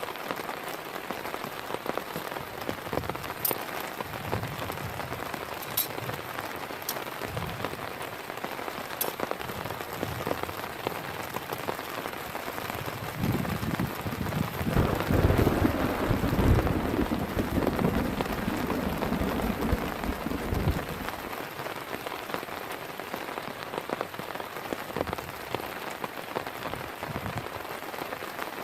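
Heavy rain falling steadily. For several seconds in the middle, a louder low rumble swells up and fades.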